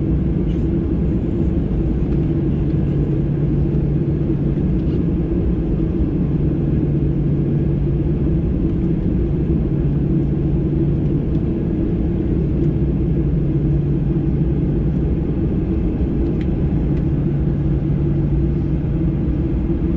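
Steady low drone inside the cabin of a Boeing 737-800 on the ground before takeoff. A constant low hum runs evenly, with no change in pitch or level.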